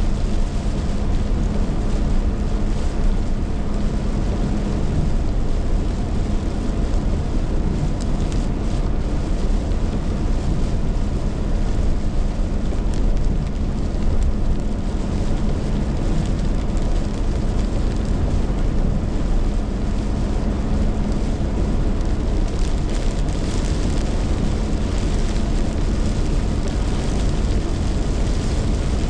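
Heavy rainstorm: a loud, steady rush of pouring rain and wind, with wind buffeting the microphone.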